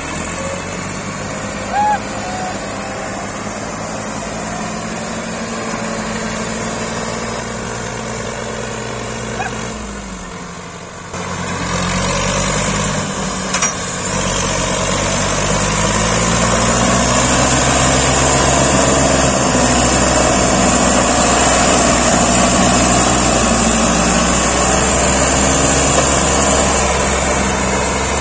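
Massey Ferguson tractor's diesel engine working hard while pulling a heavily loaded trolley. The engine note dips briefly about ten seconds in, then comes back louder and stays loud for the second half.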